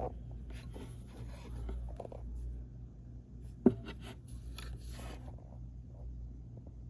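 Faint scraping and rustling handling noises over a low steady hum, with one sharp knock about three and a half seconds in.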